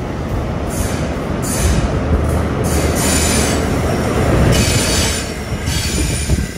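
GWR Castle HST leaving the station: coach wheels rumbling and squealing on the curved track, with the deep hum of the rear Class 43 diesel power car growing loudest as it passes about four seconds in, then fading as the train draws away.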